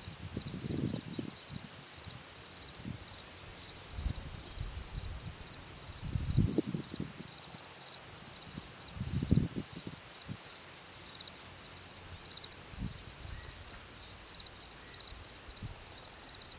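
Insects chirring steadily in a garden, a continuous high-pitched pulsing drone. Several brief low rumbles break in across it, the strongest about six and nine seconds in.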